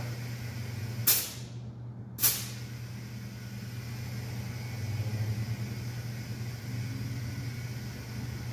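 Two short bursts of compressed air hissing at a truck tire's valve stem, about a second apart, as air goes into or out of the tire while it is set to pressure.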